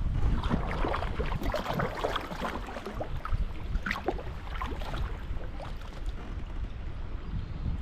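Water splashing and dripping around a kayak on a river, many small irregular splashes, with wind buffeting the microphone as a low rumble.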